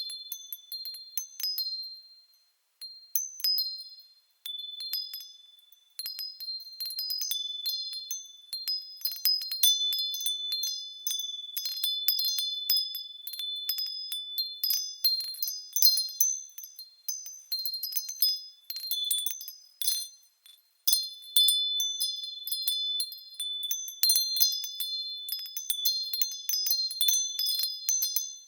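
Japanese fūrin wind chimes tinkling in the breeze: irregular, bright, high-pitched strikes that ring on, with a few short lulls where the chimes fall nearly still.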